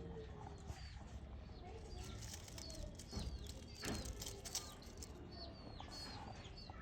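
Newly hatched baby bird cheeping: a run of short, high chirps repeated over and over, with a few sharp knocks around the middle.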